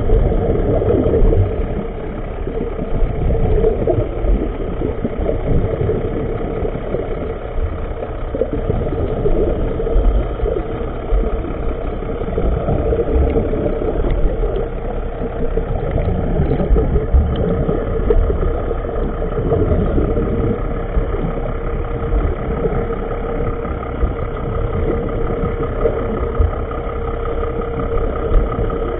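An engine running steadily at idle: a continuous low rumble with a steady hum on top.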